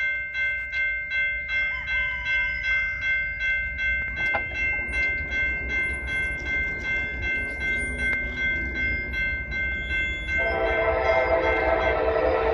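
Railroad crossing bell ringing at an even pace, about two strikes a second, over the low rumble of a passing train. About ten seconds in the locomotive's horn sounds, loud and with several tones at once.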